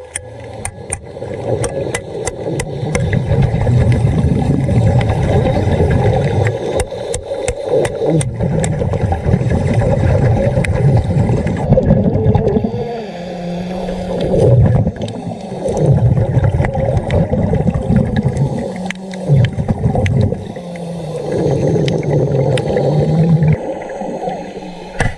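Underwater sound of a scuba diver: a low rumble of exhaled bubbles and regulator breathing that swells and drops back every few seconds, with sharp clicks in the first few seconds.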